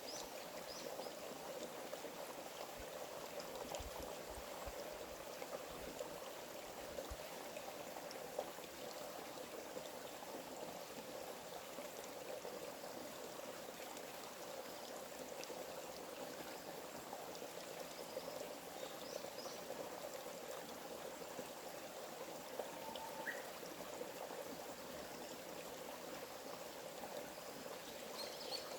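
Steady running water of a small stream, with a few faint, short bird chirps now and then.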